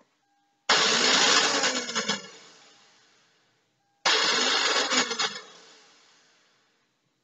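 A Lexus RX 300's starting system making a loud whirring noise twice, each burst starting suddenly and dying away over a couple of seconds, while the engine fails to start.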